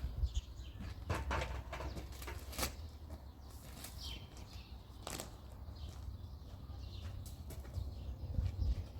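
Broom sweeping the ground in front of a house: a series of irregular swishing strokes.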